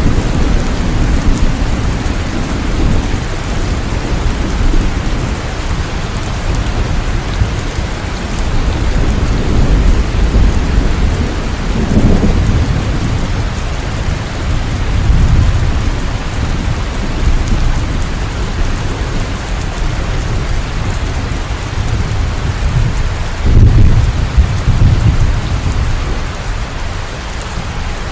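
Steady rain with low thunder rumbling throughout, swelling in several long rolls, the strongest near the end.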